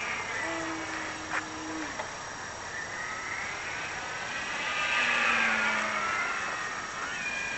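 Electric motor and propeller of a radio-control Multiplex Blizzard plane whining in flight, the pitch slowly rising and falling as it moves about. It is loudest about five seconds in.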